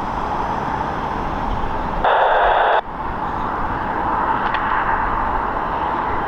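Steady jet aircraft engine noise, with a brief burst of air traffic control radio, squelch without words, about two seconds in.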